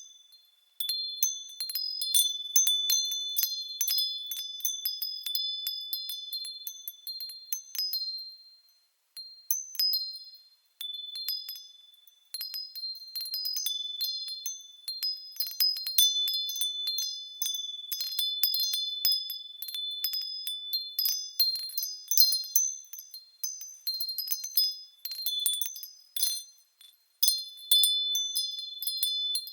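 Japanese furin wind chimes ringing as they sway in the wind: high, clear tones struck again and again in irregular clusters, with a few brief lulls.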